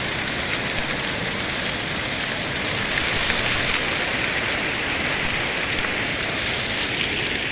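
Waterfall crashing close by: a steady, loud rush of falling water heard from behind and beneath the falls, swelling slightly about three seconds in.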